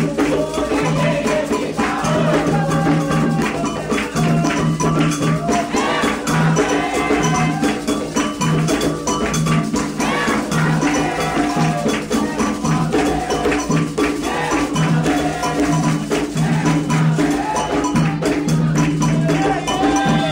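Candomblé ritual music: atabaque hand drums beating a steady, dense rhythm with rattle-like percussion, under voices singing a chant.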